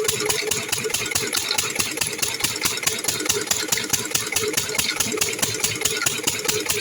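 Irrigation pump engine running steadily with a fast, even beat of about five or six strokes a second.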